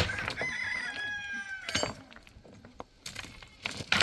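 A rooster crowing once, a call about a second and a half long that wavers, holds steady and then drops off. It follows a sharp knock at the start, and another knock comes near the end.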